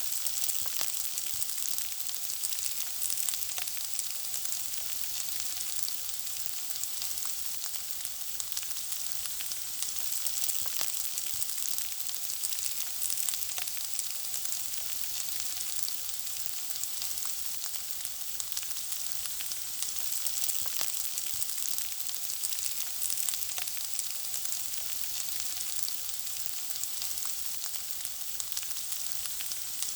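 Steady sizzling of food frying in hot oil, a continuous high hiss full of fine crackles and pops.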